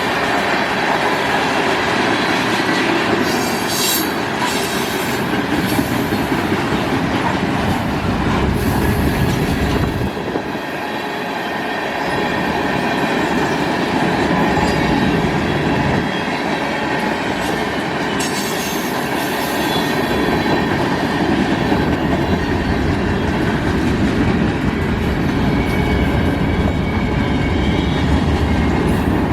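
Freight cars of a Canadian National manifest train rolling past at speed: a steady loud rumble of steel wheels on rail with clickety-clack over the rail joints, and a few short high wheel squeals along the way.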